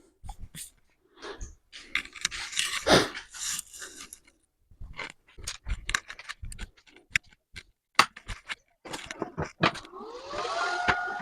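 Metal tools and parts being handled on a workbench: scattered knocks, clicks and scraping. Near the end an electric motor spins up, its whine rising and then holding steady.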